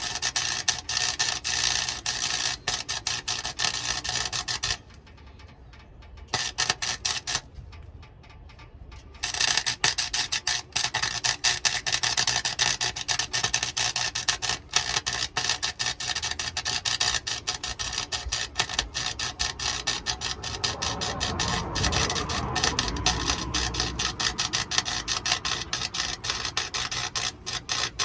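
Electric welding arc crackling in three runs as beads are laid on a truck exhaust pipe: one for about five seconds, a short one a little later, then a long steady one from about nine seconds in to the end.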